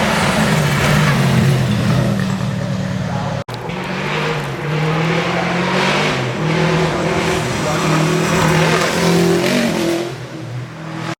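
Rally car engine running hard through a stage, its pitch stepping up and down with gear changes and throttle. The sound breaks off sharply about three and a half seconds in and resumes.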